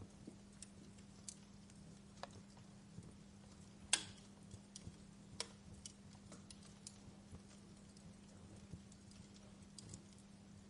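Fireplace crackling: faint, scattered sharp pops and snaps, the loudest about four seconds in, over a steady low hum.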